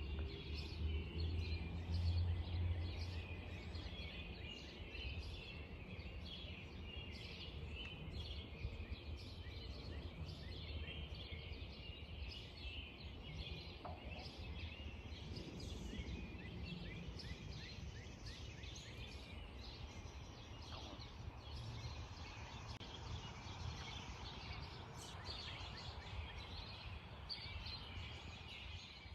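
Many small birds chirping and trilling at once, a steady outdoor chorus of short calls, over a low rumble that is strongest in the first few seconds.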